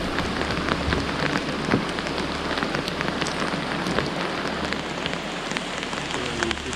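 Heavy rain falling on creek water: a steady hiss peppered with many sharp drop taps.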